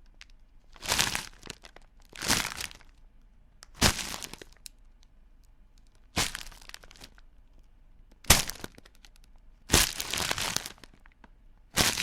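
Crisp food being bitten and crunched, a series of separate crunches about every one and a half to two seconds.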